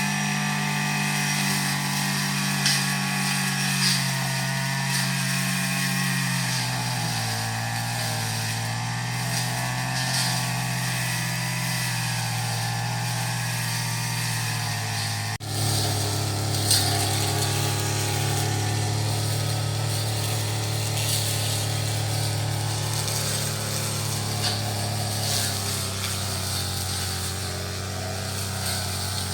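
Small gasoline engine of a brush cutter running steadily while cutting grass. Its pitch drops slightly about seven seconds in, and the sound breaks off sharply and resumes about halfway through.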